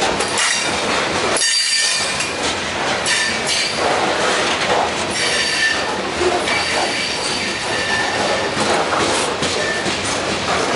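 Freight train of coal hopper cars rolling past at close range: a steady rumble and rattle of steel wheels on the rail, with bouts of high-pitched wheel squeal that come and go every second or two.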